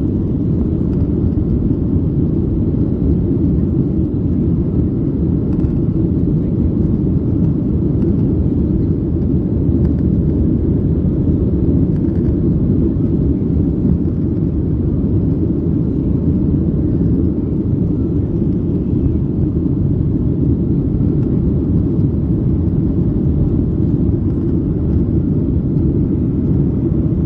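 Steady, low rumble of a Boeing 737-900's CFM56 jet engines and airflow during take-off.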